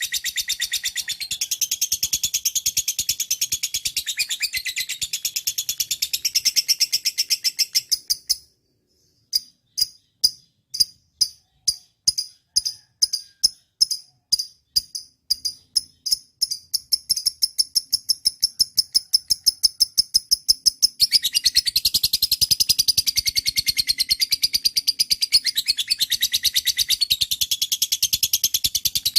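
Lovebird chattering in a fast, continuous run of high chirps. After about eight seconds it stops briefly, then restarts as separate chirps that speed up into a rapid trill, and the fuller chattering returns about two-thirds of the way through.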